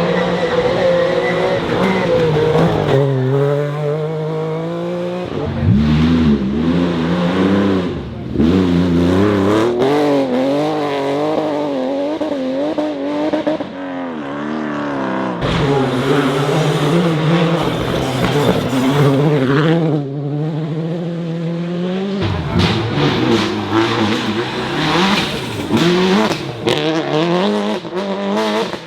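Rally car engines at full throttle, revs climbing and dropping repeatedly through gear changes and lifts, with some tyre squeal. The sound changes abruptly several times as one car gives way to the next.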